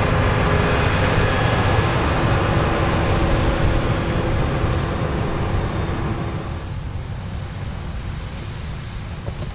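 Heavy farm machinery in a harvest field, a combine or a large tractor, with its engine running loud and steady. The noise falls off after about six and a half seconds as the machine moves away.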